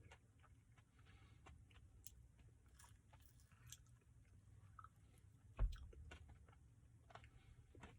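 Faint chewing and mouth sounds of someone eating a Dairy Queen Butterfinger Blizzard, with small scattered clicks. A single sharp thump comes a little past halfway.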